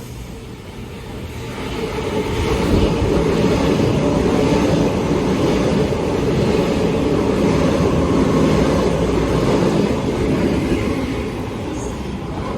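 Train running past on the tracks, its rumble swelling over about two seconds, staying loud, then easing off near the end.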